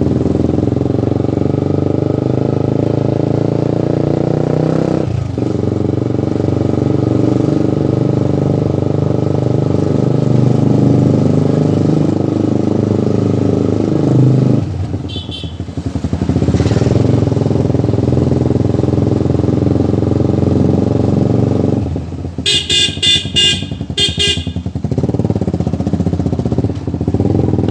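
Motorcycle engine running steadily, with a brief drop in pitch and level about halfway through. Near the end a horn sounds in several short beeps.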